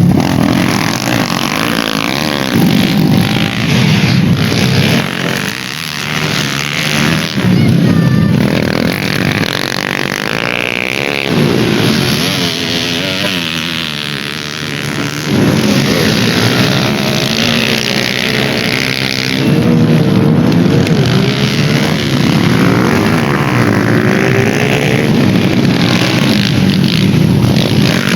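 Dirt-bike engines racing, revving up and down again and again as the bikes accelerate and shift.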